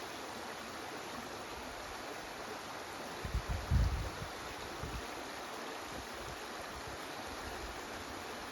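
Small stream babbling steadily over stones. A short cluster of low thumps about three and a half seconds in, like wind buffeting or handling of the microphone.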